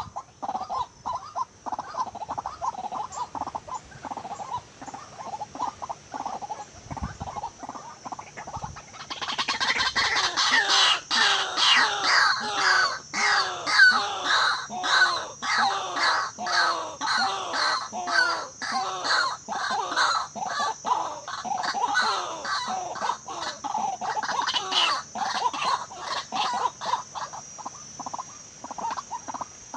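White-breasted waterhen (ruak-ruak) calling: a long run of harsh, rapidly repeated croaking notes that grows much louder about nine seconds in and eases off near the end.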